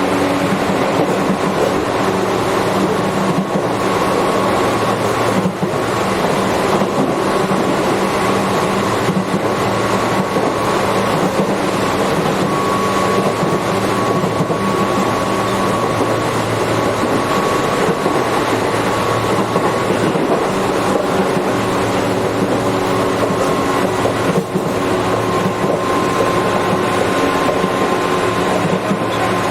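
Running noise of a Tobu 8000-series electric train heard from inside the car: a steady rumble of wheels on rail with a motor and gear whine that shifts a little about halfway through.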